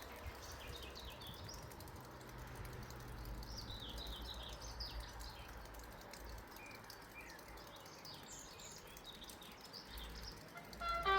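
Small birds chirping in short scattered calls over a faint low rumble of outdoor background noise. Just before the end a train's horn starts to sound.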